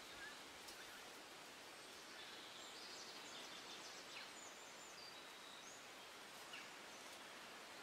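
Near silence: faint outdoor hiss with a few faint, high bird chirps around the middle.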